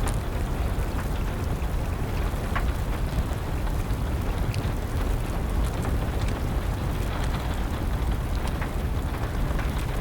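Wood fire crackling with sparse sharp pops over a steady hiss of rain and a deep low rumble.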